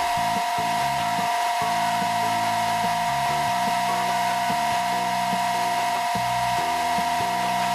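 A small electric motor whining steadily at a constant pitch, with a low stepping tune beneath it.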